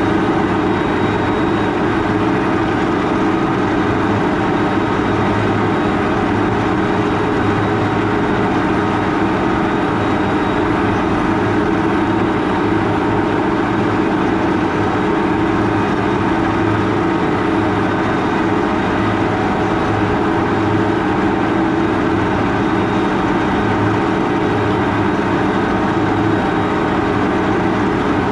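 Case IH Quadtrac 580 tractor engine running steadily under load while pulling a 14-furrow plough.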